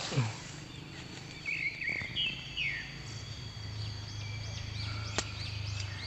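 Wild forest birds chirping: a run of short chirps about one and a half to three seconds in, then quick rising-and-falling notes higher up, over a steady high insect drone. A single sharp click about five seconds in.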